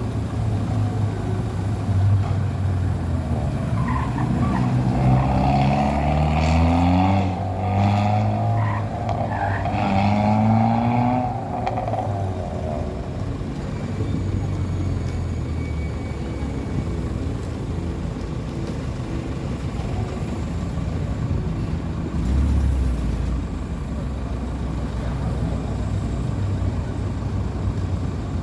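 Car engines running, revved in several rising runs for a few seconds early in the stretch, then settling to a steady run.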